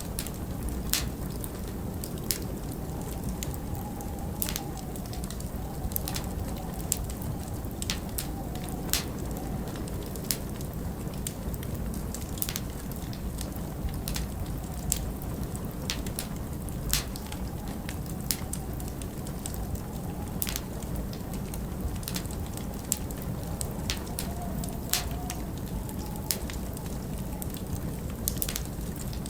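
Log fire crackling, with frequent sharp pops and snaps over a steady low rumble of blizzard wind that now and then rises into a faint, wavering howl.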